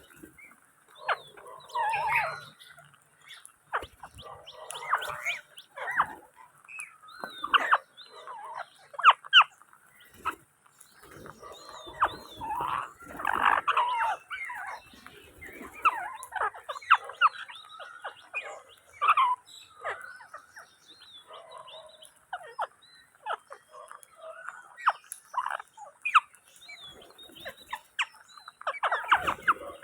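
Indian ringneck parrots calling: many short, irregular squawks and chirps, with a few louder screeches.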